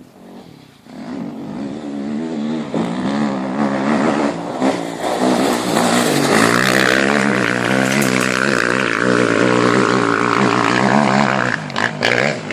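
Motocross motorcycle engine revving hard, its pitch rising and falling with the throttle and gear changes. It swells in about a second in, is loudest through the second half and dips briefly near the end.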